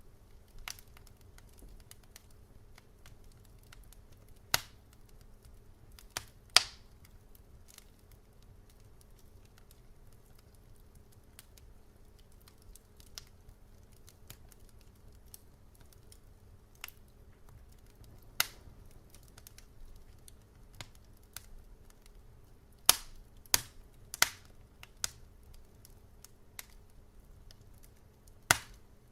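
Wood fire in a fireplace crackling: sharp, irregular pops and snaps, a few much louder ones, over a faint low steady hum.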